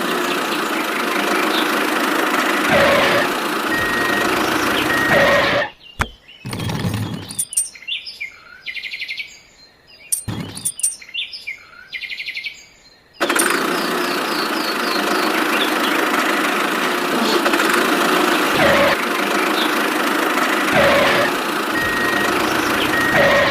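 A steady engine-like running noise that stops about six seconds in and starts again about thirteen seconds in; in the quieter gap, birds chirp.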